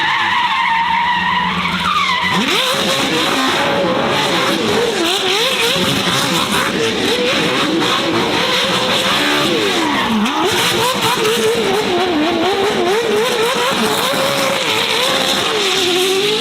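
Car engine held at high revs, its pitch rising and falling over and over, over continuous tyre squeal and skidding, as a car being drifted.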